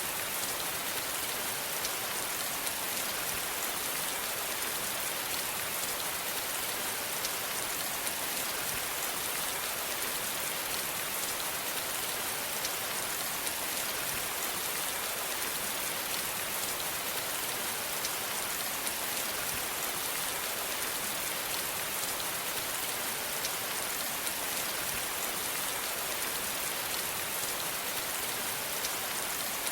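Steady rainfall, an even hiss with fine pattering drops that does not change.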